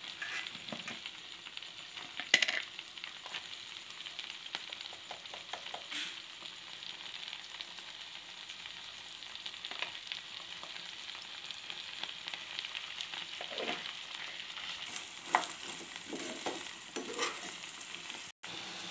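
Sliced okra sizzling in hot oil in a steel pan, a steady frying hiss. A metal slotted spatula now and then knocks and scrapes against the pan as the okra is stirred.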